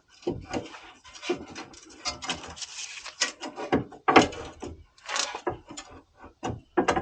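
Irregular knocks, clunks and scraping of hand tools being handled against the suspension, the loudest knocks about four and five seconds in.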